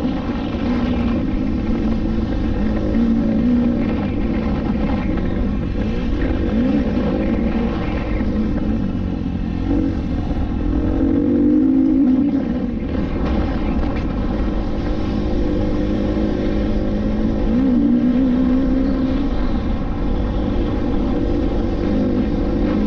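KTM EXC-F 250's single-cylinder four-stroke engine running under load on a dirt track, its pitch rising and falling repeatedly as the throttle is worked and the gears change.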